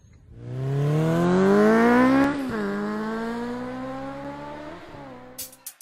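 Car engine revving up, climbing steadily in pitch for about two seconds, then dropping sharply as if shifting gear and running on with a slowly falling pitch as it fades.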